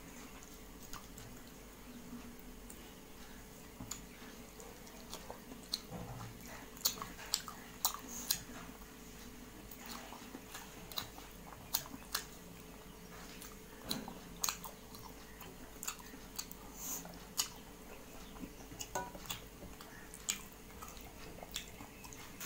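A person chewing food close to the microphone: irregular wet smacks and clicks, the loudest a few seconds in, over a faint steady hum.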